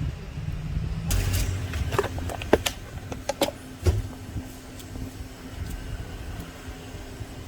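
A handful of sharp clicks and taps, bunched about one to four seconds in, over a low background rumble and a faint steady hum.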